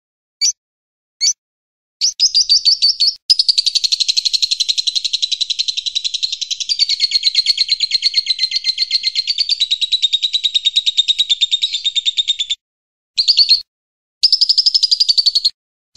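Recorded songbird calls from a masteran mix of cililin, lovebird and siri-siri songs. A couple of short separate chirps come first, then a fast, evenly pulsed chattering trill that runs for about ten seconds. After a brief pause come two shorter bursts of the same chatter.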